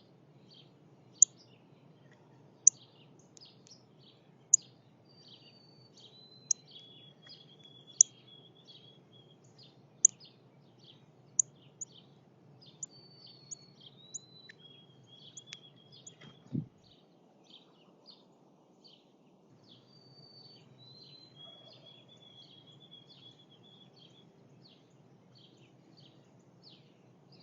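Northern cardinal giving loud, sharp, high chip calls, one every one to two seconds, through the first half, with other birds' softer chips and short trilled phrases behind. One dull thump about halfway through.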